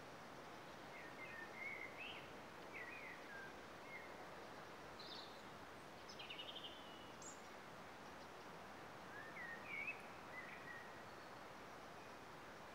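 Faint songbirds singing short chirping phrases, in a cluster through the first half and again about ten seconds in, over a steady faint hiss.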